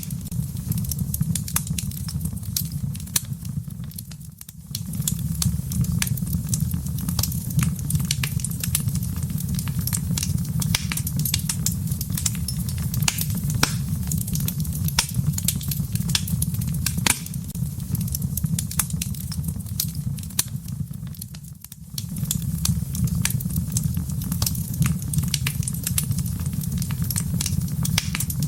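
Wood fire crackling in a fireplace: a steady low rumble of flames under constant sharp crackles and pops. The sound dips briefly twice, about four seconds in and again near twenty-two seconds.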